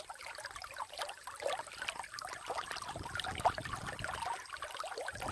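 Running water trickling and gurgling, with a busy, irregular patter of small splashes.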